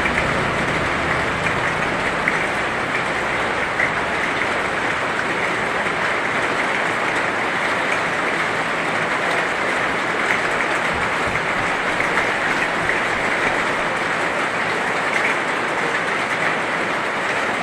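Heavy rain falling steadily: a dense, even hiss with small scattered drop ticks.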